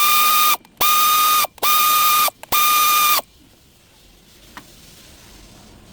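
A power tool run in four short bursts with gaps between them, each a loud, steady high whine that starts and stops abruptly.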